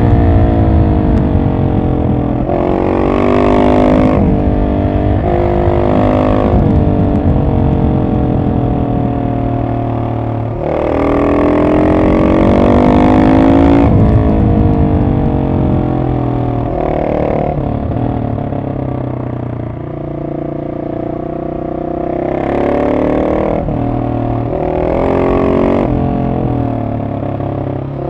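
Husqvarna 701 SM's single-cylinder four-stroke engine through an Arrow exhaust, de-catted with the dB killer in. It revs up and down repeatedly as the bike is ridden, with several bursts of acceleration where the pitch climbs and steps down at gear changes. Between them it runs lower and quieter off the throttle.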